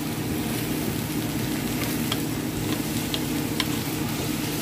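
Rice, tomato, onion and green pepper sizzling in a stainless steel pot as a wooden spoon stirs them, with scattered light clicks and scrapes of the spoon against the pot over a steady low hum.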